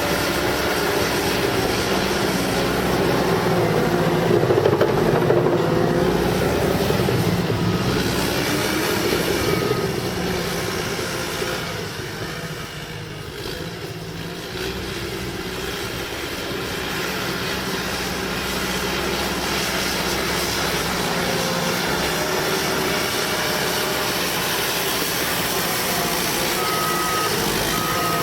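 Cat D5K bulldozer's diesel engine working steadily, growing louder about four to six seconds in and easing off around twelve to fourteen seconds before settling again. Its reversing alarm beeps a few times about eight to ten seconds in and again near the end as the dozer backs up.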